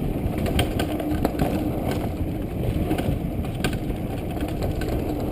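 Downhill mountain bike rattling and clattering over a rough, rocky trail, heard through a GoPro camera housing as a muffled rumble with frequent sharp knocks.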